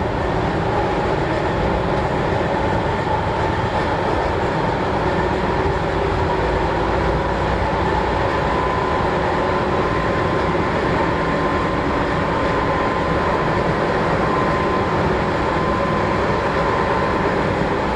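Keihan Ishiyama-Sakamoto Line train running along the track, heard from inside the front of the car: a steady rumble of wheels on rail with a faint motor whine that rises a little early on and then holds level.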